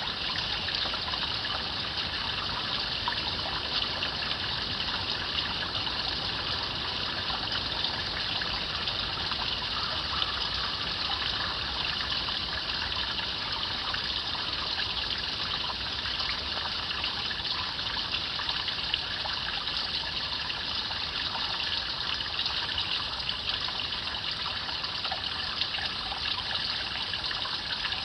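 A shallow stream babbling and trickling over stones, a steady even rush of water with fine splashing.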